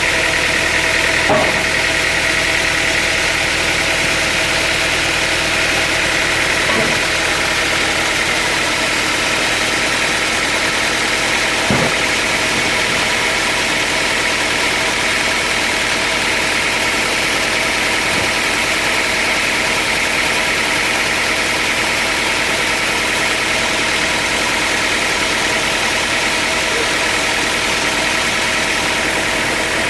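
Sawmill machinery running steadily with an even mechanical hum and whine, with a few short knocks, about 1.5, 7 and 12 seconds in.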